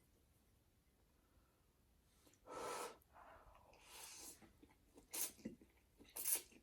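A person's breath sounds while eating very hot ramen noodles: after two quiet seconds, one sharp burst of breath, then breathy puffs and short quick breaths about once a second.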